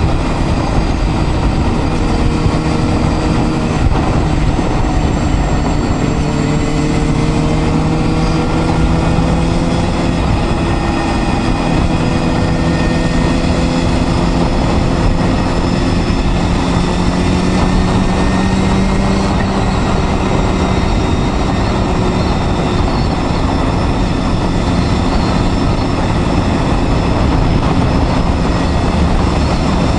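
Honda Hornet 250's inline-four engine running under way at fairly steady revs, its note drifting slowly up and down, over constant wind and road noise.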